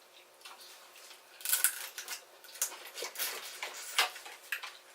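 Close-up eating and food-handling noises: a run of short crackly clicks and wet smacks, heaviest from about a second and a half in.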